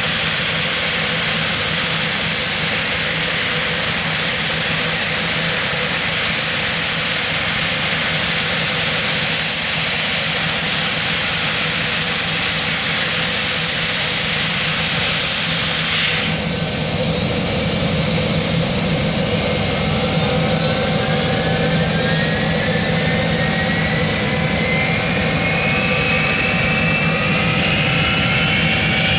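Nimrod jet engines running on the ground: a loud, steady rush of jet noise. About halfway through the hiss dips, then a whine climbs steadily in pitch as an engine spools up.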